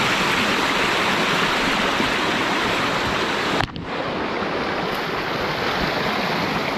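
Steady rushing of falling water from a waterfall. It breaks off for a moment a little over halfway, then carries on slightly duller.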